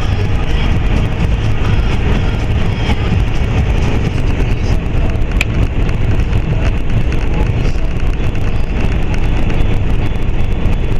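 Steady low rumble and road noise of a semi truck running, with a single faint click about halfway through.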